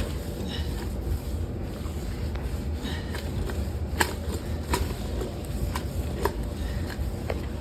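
Handling and rubbing sounds of a rag being wiped around the inside of a washing machine drum, with several short knocks against the machine, the sharpest about halfway through, over a steady low hum.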